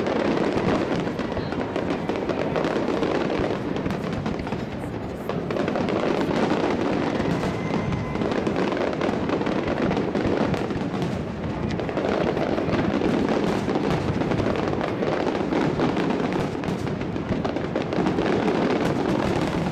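Fireworks display: a dense, continuous barrage of aerial shell bursts and crackle, easing off briefly twice before building again.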